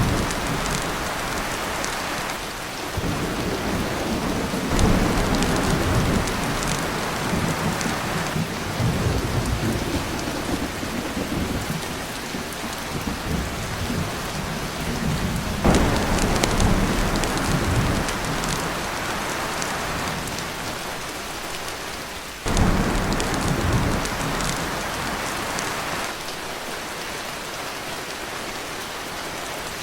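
Heavy rain pattering steadily on a tin roof, with several rolls of thunder. Two of them break in suddenly, about halfway through and again about three-quarters of the way in, and the last few seconds hold rain alone.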